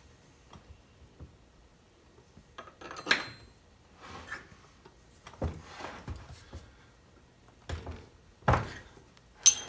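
Metal tools and parts being handled and set down: scattered knocks and clinks, a ringing metallic clink about three seconds in and again near the end, and a heavier thump shortly before the end.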